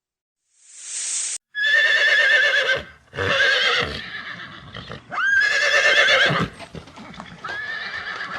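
An animal giving four drawn-out, wavering high-pitched calls in a row, each about a second long, after a short hiss.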